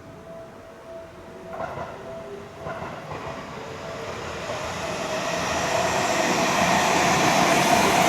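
Level-crossing warning bell ringing in an even, repeating tone while a train approaches. The train's rumble and wheel noise grow steadily louder from about three seconds in and are loud by the end, with two brief clatters about a second apart before that.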